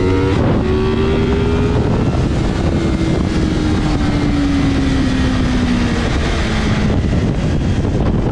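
Motorcycle engine running on the move, heavy wind noise on the microphone; the engine note drops slowly over several seconds.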